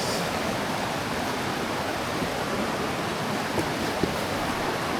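Steady rush of fast-flowing river water below a waterfall, with two faint brief ticks a little past the middle.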